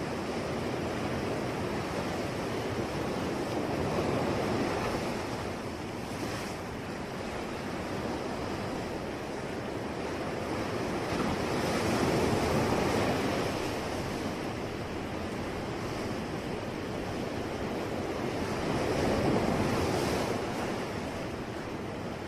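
Sea waves breaking and washing ashore in a continuous hiss, swelling louder three times, about eight seconds apart, as each wave comes in.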